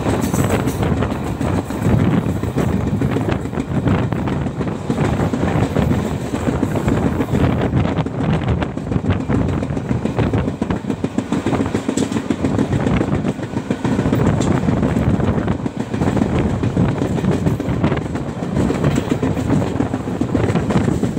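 Passenger train coach running along the track, heard from on board: a steady rumble of wheels on rails with many irregular clicks and rattles.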